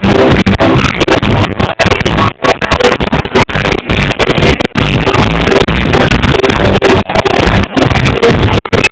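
Live reggae band music, loud and badly distorted, with the sound cutting out for split seconds again and again.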